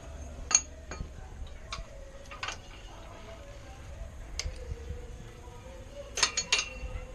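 Scattered light metallic clinks and taps, with a quick run of several clinks near the end.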